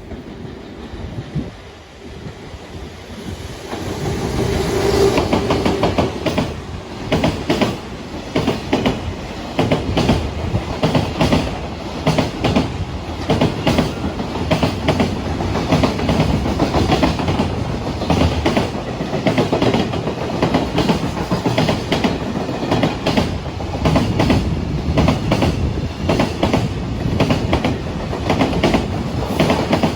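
A train passing at speed on the Tokaido Main Line, its wheels clattering rhythmically over the rail joints. The sound swells about four seconds in and stays loud as the long train keeps going by.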